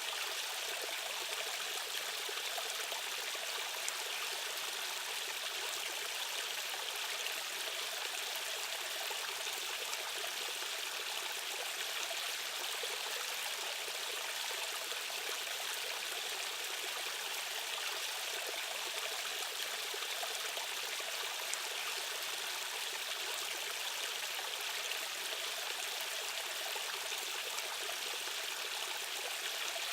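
Fast-flowing stream water rushing over rocks, a steady hiss with no breaks.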